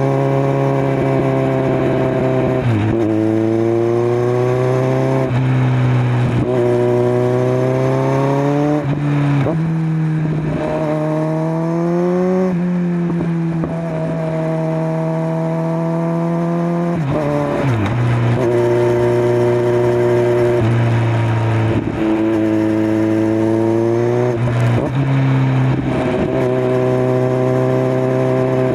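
Kawasaki Z900 inline-four with a LeoVince LV10 slip-on silencer, running under way. The revs climb gently and then drop sharply at gear changes, several times, with a stretch of steady cruising in the middle.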